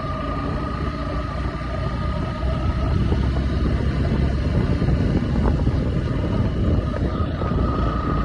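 Motorcycle engine running steadily while being ridden, with road and wind noise; it grows louder about two and a half seconds in.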